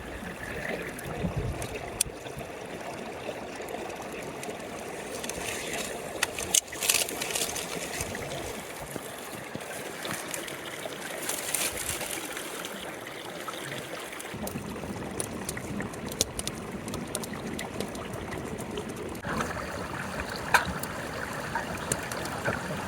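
Running water of a stream, trickling and gurgling, with a few scattered knocks and clicks over it.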